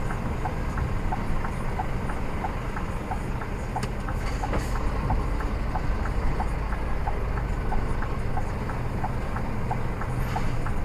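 Lorry turn indicator ticking steadily inside the truck cab, about four clicks a second alternating between a higher and a lower click, over the low steady rumble of the running diesel engine.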